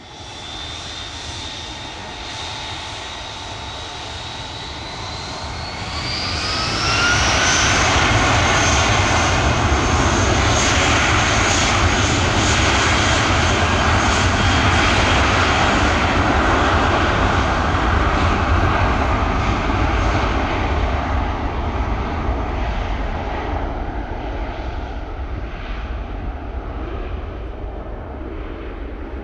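Airbus A320's IAE V2500 turbofan engines spooling up for takeoff: a steady whine rises in pitch about six seconds in as the sound swells into a loud jet rumble. The rumble holds, then slowly fades over the last third.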